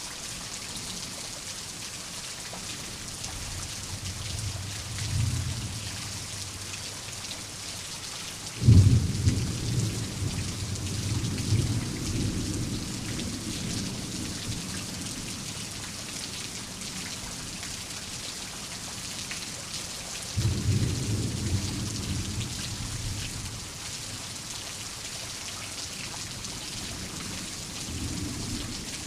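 Steady rain with rolling thunder. The loudest peal starts suddenly about nine seconds in and rumbles on for several seconds. A second peal comes about twenty seconds in, and fainter rumbles are heard near the start and the end.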